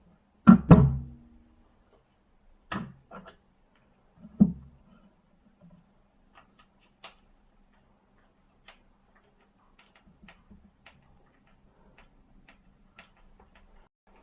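Hard knocks of a cordless impact wrench and its parts being handled on a workbench: two loud knocks close together near the start, two more a few seconds later, then a run of small irregular clicks and ticks as parts are moved, over a faint steady hum.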